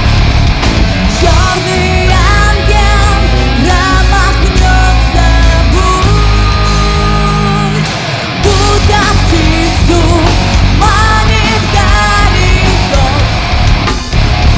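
Loud live heavy rock from a band: distorted guitars, bass and drums playing together, with a brief drop in the bass about eight seconds in.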